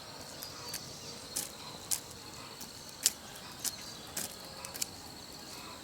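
Steady high-pitched trilling of insects in the forest, with a handful of sharp clicks or snaps scattered through it.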